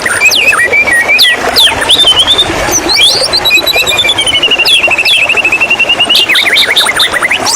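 White-rumped shama singing: a run of varied whistles and quick sweeping notes, with a long fast trill in the middle, over a steady rush of running water.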